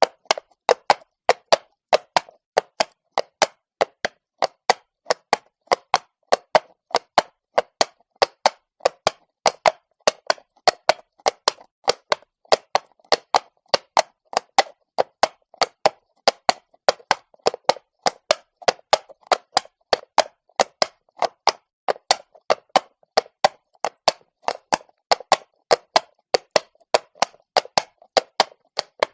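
Horse's shod hooves on cobblestones at a walk: a steady, even run of sharp clops, about three to four a second.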